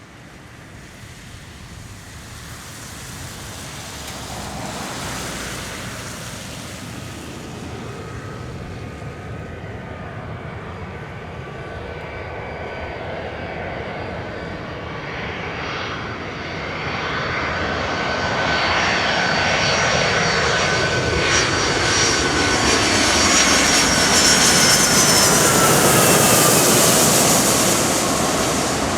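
Boeing 757-200 jet airliner approaching to land. The engine noise swells steadily louder, with a high whine in it, and the whine's pitch falls near the end as the aircraft passes.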